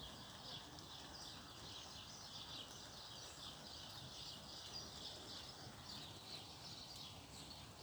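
Faint outdoor ambience: many small birds chirping continuously in a dense chorus over a low, steady rumble.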